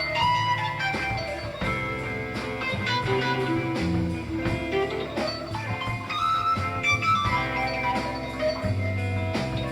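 Instrumental band music with a guitar lead, a live performance captured on a cassette recording.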